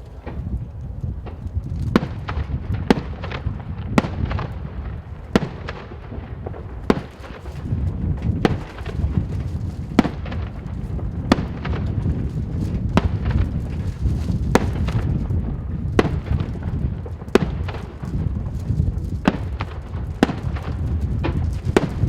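Fireworks display: aerial shells bursting in sharp, irregular bangs about once a second, over a continuous low rumble and crackle of overlapping bursts.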